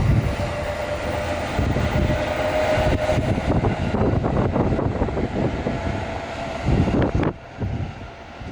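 Strong wind buffeting the microphone in gusty, rumbling surges, easing a little near the end, with a faint steady hum running underneath for a few seconds.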